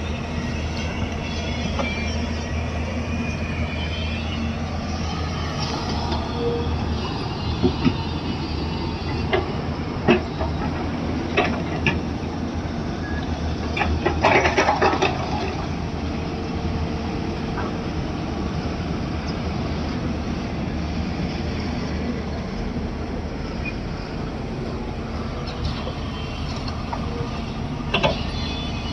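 Backhoe loader's diesel engine running steadily, with several sharp knocks about a third of the way in, a short rattle near the middle and one more knock near the end.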